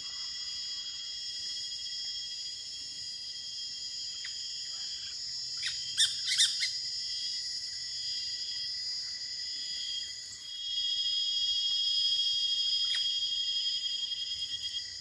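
Steady, shrill chorus of forest insects, holding several high pitches at once, swelling louder about two-thirds of the way in. A quick cluster of sharp bird squawks comes about six seconds in.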